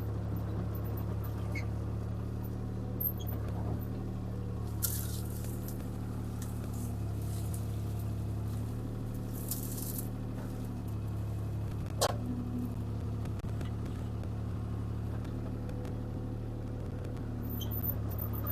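CAT 303C CR mini excavator's diesel engine running steadily under work, with two brief hisses and a single sharp knock about two-thirds of the way through.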